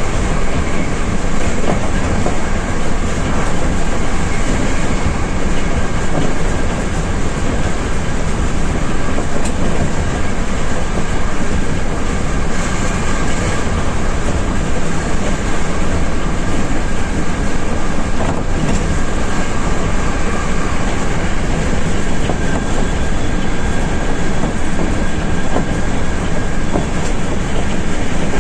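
Hankyu Railway limited express electric train running at speed, heard from the front of the leading car: a steady, even running noise of wheels on rail, with a faint steady high whine.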